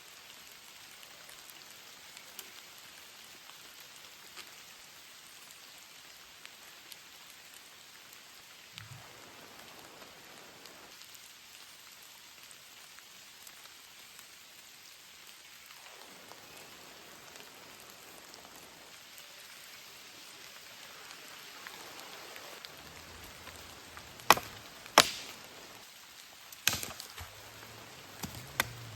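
Steady rain falling, then near the end about five sharp chops of a blade striking wood.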